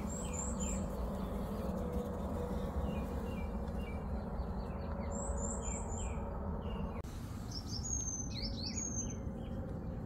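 Small songbirds singing and calling: thin high chirps in quick runs of three or four notes, then a flurry of varied whistled notes near the end, over a steady low background rumble.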